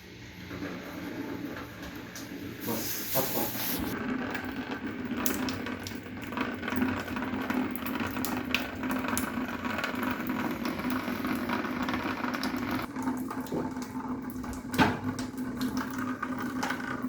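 Liquid running through a homemade gravity-feed fuel system model, flowing steadily from the tank through the tubing and valves. There is a short hiss about three seconds in and a sharp knock near the end.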